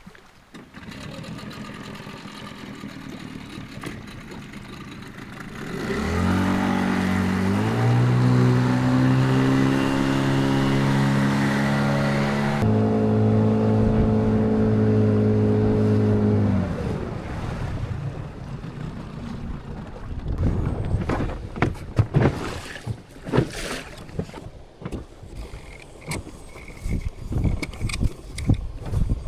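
Small outboard motor running, its pitch rising quickly to a steady high run and holding there for about ten seconds before it stops. Wind noise comes before it, and scattered knocks and handling noises follow.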